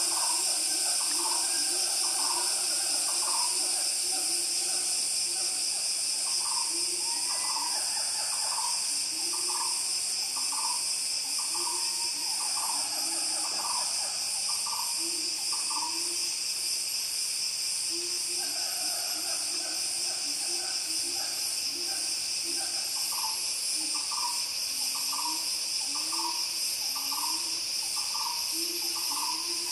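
Malaysian rainforest ambience: a steady, high-pitched insect chorus. Over it, short animal calls repeat over and over, a mid-pitched series about one to two a second and a lower series of calls beneath it.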